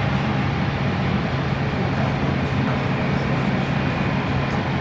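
Aircraft engine noise: a steady rumble with a constant low hum.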